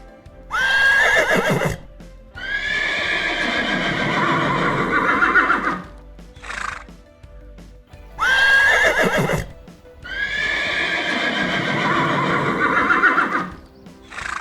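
Horse neighing: a short high call, then a long, wavering whinny of about three seconds. The same pair of calls repeats about eight seconds later.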